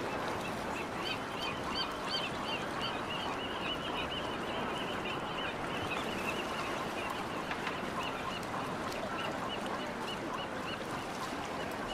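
A bird calling in a long series of short, high, arched notes, about three or four a second, fading toward the end, over a steady background hiss.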